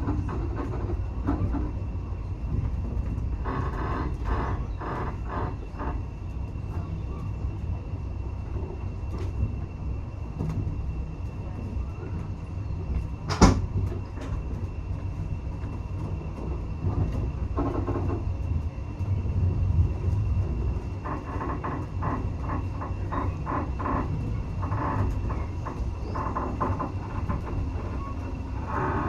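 Railway carriage rolling along the track with a steady low rumble. Runs of rapid clickety-clack come from the wheels crossing rail joints, and there is one sharp bang about halfway through.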